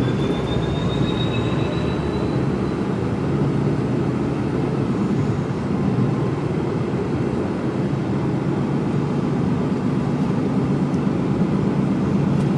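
Diesel engine of a Mercedes Actros HGV tractor unit running as the truck drives, heard from inside the cab as a steady low drone. A faint high whine rises slightly over the first two seconds.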